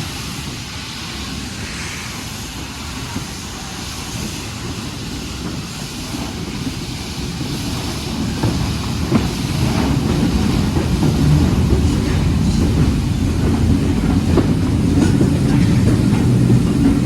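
Train running on the rails, a steady rumble with some clatter that grows louder from about halfway through as it comes closer.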